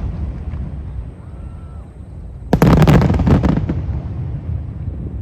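Aerial fireworks: a rapid volley of shell bursts, sharp bangs crowded together about halfway through, with a low rolling rumble of echoes before and after.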